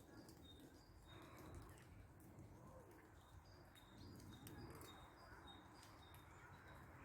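Faint bird chirping: many short, high notes alternating between two pitches, over a low rumble.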